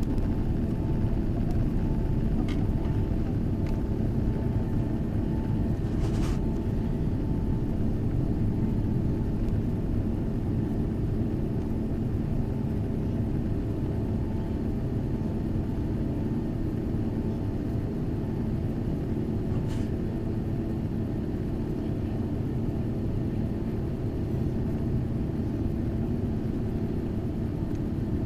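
Steady engine drone and airflow rumble inside the cabin of an Airbus A380 with Engine Alliance GP7200 engines, with a few steady tones over the rumble, easing off slightly. A few faint clicks are heard.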